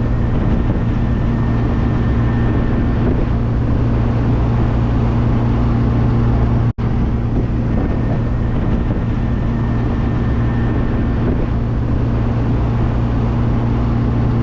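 Classic car driving at a steady speed: an even engine drone with road and wind noise, with a split-second dropout about halfway through.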